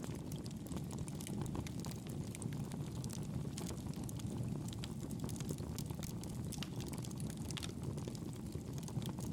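Campfire crackling: many small, irregular pops and snaps over a low, steady rumble of the burning fire.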